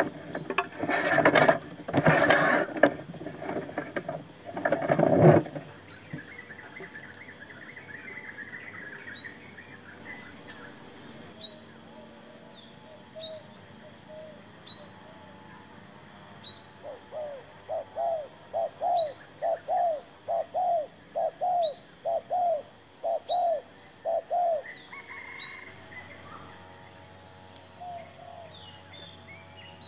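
Loud rustling and knocking for about the first five seconds, then wild birdsong: a short, high chirp repeated every second or so, and, about halfway through, a run of about a dozen quick, evenly spaced mid-pitched notes.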